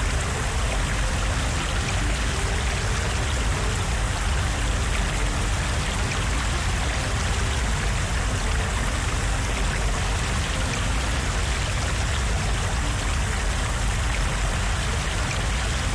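Floodwater rushing through a street: a steady, loud, unbroken roar of fast-moving water.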